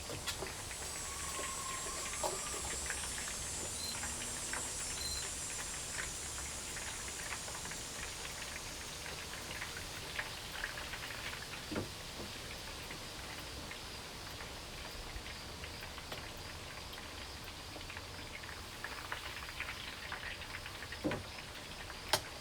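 Chicken cooking in a pan, a steady crackling sizzle with a few sharper knocks near the end.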